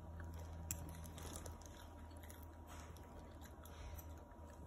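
Faint chewing of a mouthful of kibbeh nayyeh, with a few light clicks, over a steady low hum.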